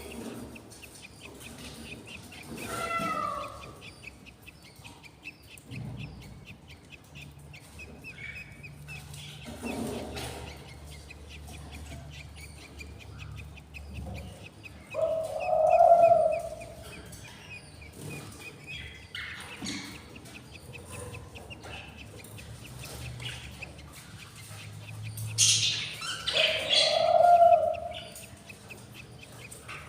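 Budgies chirping, with a faint steady run of quick chirps under louder separate calls, the loudest about halfway and near the end.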